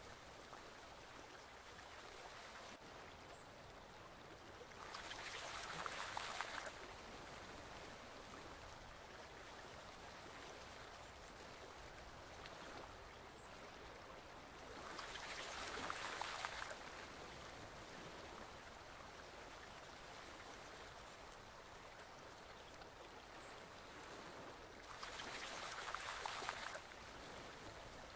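Forest stream flowing steadily, with a louder rush of water about every ten seconds.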